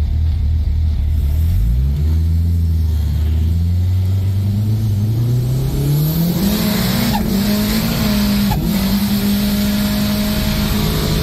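Early Toyota Hilux pickup's engine heard from inside the cab, accelerating from a rolling start. Its revs climb steadily for about five seconds, then hold at a high, level note while wind and road noise build. The sound is briefly broken twice near the end.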